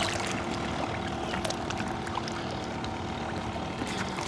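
A steady low motor hum over a waterside noise bed, with many small scattered clicks.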